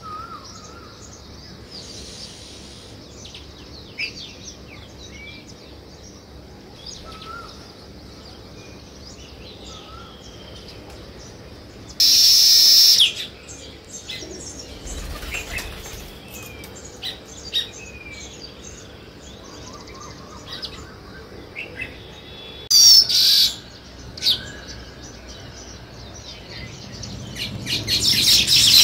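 Sparrows chirping: scattered short high chirps, with two brief loud bursts about a third of the way in and again about three-quarters through, and the chirping swelling louder near the end.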